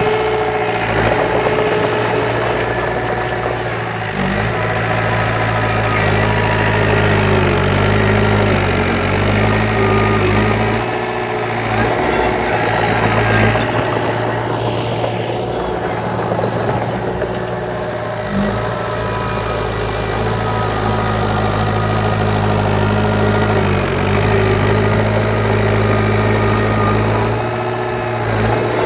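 Diesel engine of heavy earthmoving equipment running steadily at low revs, its pitch dipping and recovering briefly several times.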